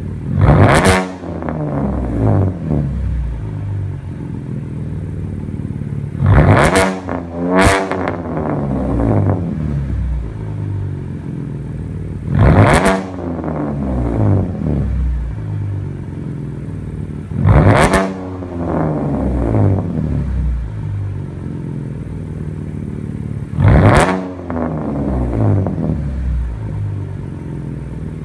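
Sixth-generation Chevrolet Camaro engine idling through its exhaust and revved six times, each rev falling back to idle. The revs are single blips about five or six seconds apart, except for two in quick succession about seven seconds in.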